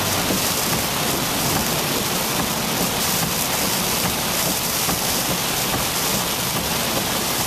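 Heavy hurricane rain falling steadily, a dense even hiss.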